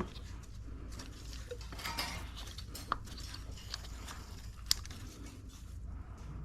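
Small clicks, light clatter and rustling of hand work as a new ignition coil is fitted into the engine, with two sharper clicks about three and five seconds in, over a low steady hum.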